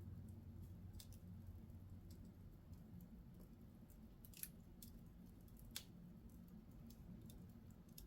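Wood fire in a fireplace crackling faintly, with sparse small pops and two sharper ones about four and a half and six seconds in, over a low steady hum.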